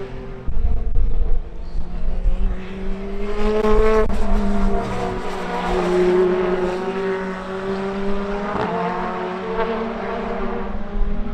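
Toyota Corolla GR Sport BTCC touring car's engine running at racing speed on track, its pitch rising and falling several times as it accelerates and lifts, with a sharp drop about three quarters of the way through.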